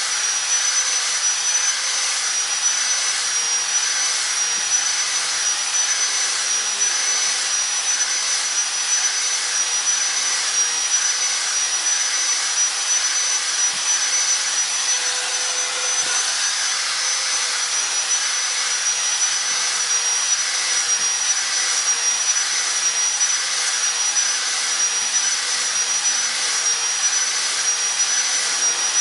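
Handheld electric grinder running steadily with a high whine, grinding a square bird-cage bar round as the bar is turned against it.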